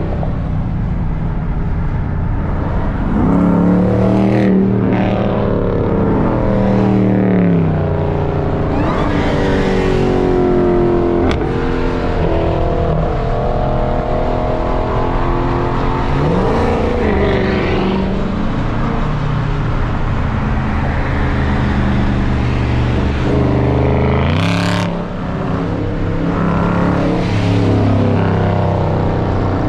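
Dodge Hemi V8 muscle-car engines accelerating and revving, heard from inside a car's cabin. The pitch climbs and falls repeatedly as they pull through the gears, with a brief drop about 25 seconds in before climbing again.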